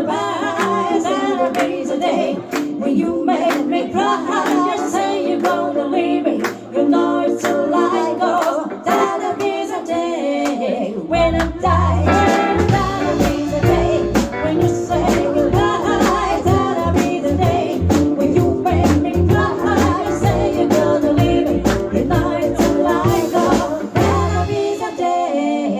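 A live band playing a song with a singer over guitar accompaniment; about eleven seconds in, a heavy low end comes in and the music gets fuller.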